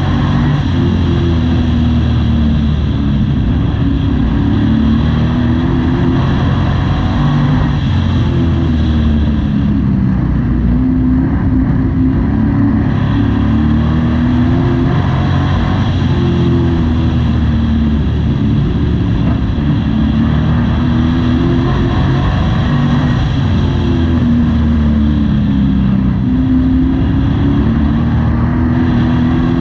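Pro Truck race engine heard from inside the cab, running hard, its revs rising and falling over and over every few seconds as it laps a short oval.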